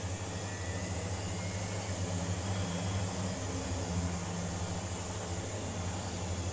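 Miele washing machine running empty on a spin cycle, its motor and drum giving a steady hum with a faint whine that rises slightly in the first second as it speeds up toward 1600 rpm. This is a test run of a rebuilt drum spider (shaft).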